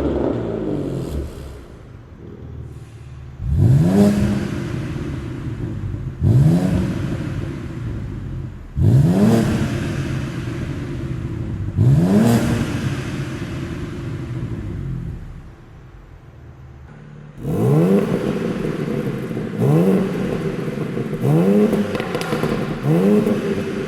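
BMW M2 (G87) twin-turbo inline-six revving through an H.Drive stainless steel catalytic downpipe and catback exhaust. There are short, sharp throttle blips from idle, each rising quickly in pitch and falling back. The first four come a few seconds apart; after a quieter stretch of idle near the middle, four quicker blips follow.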